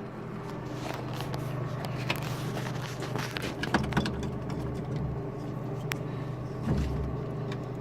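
A vehicle engine idling steadily with a low hum, with scattered clicks and knocks over it and a brief low rumble near the end.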